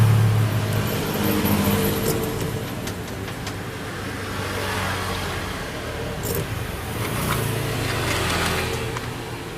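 A motor vehicle engine running, loudest at the start, fading, then louder again about seven seconds in, with a few light clicks in between.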